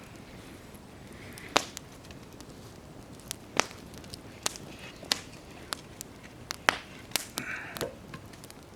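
Wood campfire crackling, with sharp irregular pops about once a second over a low steady hiss, and a brief hiss near the end.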